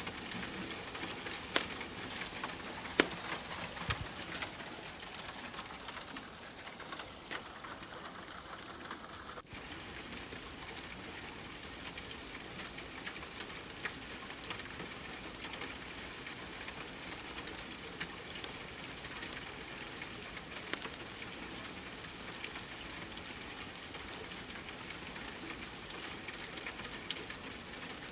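Steady rain patter mixed with a wood fire crackling, with two sharp pops about one and a half and three seconds in.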